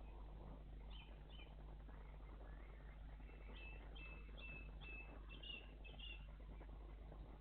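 Faint songbird calls: a couple of chirps about a second in, then a run of about seven short, evenly repeated high notes from about three and a half seconds in.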